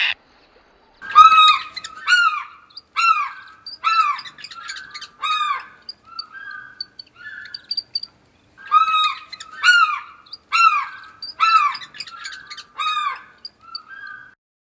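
A bird calling loudly and repeatedly, about one call a second, in two series with a short break in the middle. Each call is a short note that arches up and then falls in pitch. Faint high pips come in during the break.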